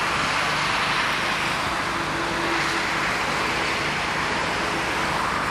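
TagAZ Aquila idling steadily, heard from behind at its single exhaust pipe: a low engine hum under an even rushing hiss.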